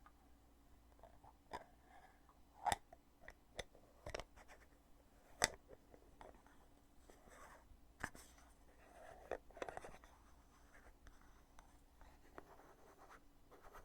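The lid of a foundation container being opened and closed: a series of sharp clicks a second or two apart, with soft handling rustle between them.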